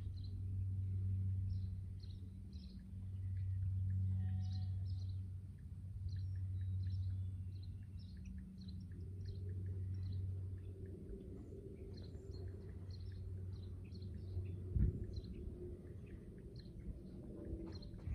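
Small birds chirping in short, scattered calls over a low hum that swells and fades every few seconds, with a single knock about three-quarters of the way through.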